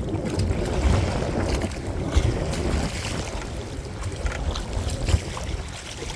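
Wind buffeting the microphone in gusts over choppy water splashing around a small kayak.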